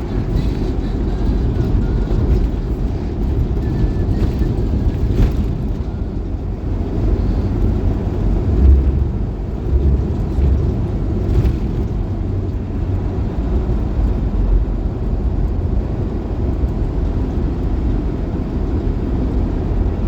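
Steady low rumble of a moving vehicle's engine and road noise, with a couple of heavier low bumps about midway.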